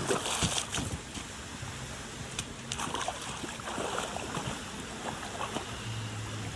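Steady rush of running stream water, with a few short sharp ticks or splashes.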